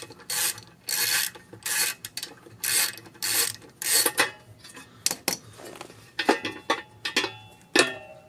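Hand ratchet being swung back and forth while loosening engine bolts, its pawl clicking in regular bursts a little under a second apart. From about four seconds in, sharper metallic clicks and short ringing clinks follow as tools and parts are handled.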